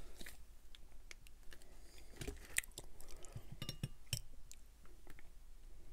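Close-miked chewing of a crunchy hard-shell taco topped with fried chicken skin: soft, irregular crunches and clicks.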